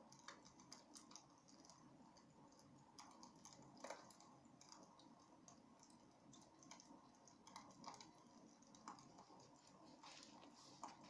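Wood fire burning in a fireplace, crackling with irregular small pops and snaps over a soft steady rush.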